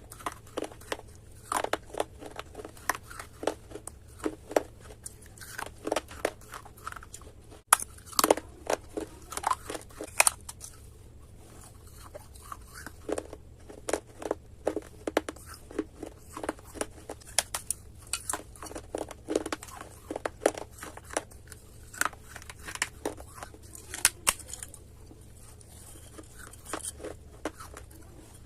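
Close-up crunching and chewing of dry clay: irregular crisp cracks and crumbling bites with short pauses between them.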